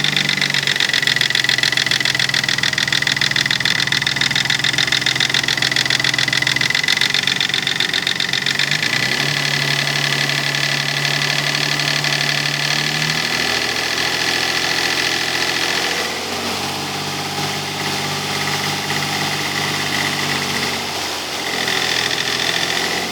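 Nissan 300ZX (Z32) naturally aspirated V6 engine running while the revs are held at a few steady speeds, stepping up and down several times, with a high-pitched whine over it. The whine fades about two-thirds of the way through and comes back near the end. The owner does not know what causes it.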